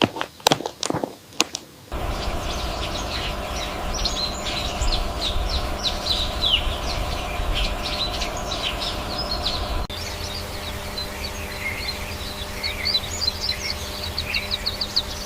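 Small birds chirping and singing in quick, falling high notes over a steady low outdoor rumble. The first two seconds hold a run of sharp clicks before the birdsong comes in.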